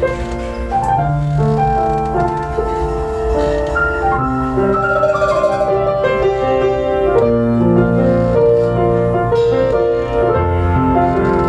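Live instrumental music led by piano: a melody of held notes over chords.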